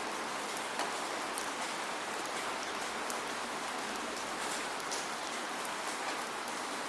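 Steady rain falling without thunder, an even hiss with many separate drops ticking and pattering on surfaces.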